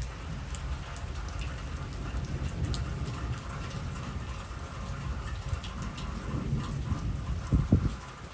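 Heavy rain pouring down, with scattered sharp drop clicks over a steady low rumble; a brief louder low thud near the end.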